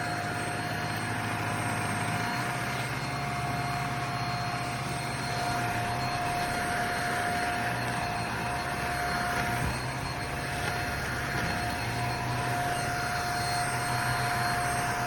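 Handheld mattress vacuum cleaner (JPHYLL Ultra-UVC-K16) running steadily, its motor giving a constant whine over a low hum and a rush of air.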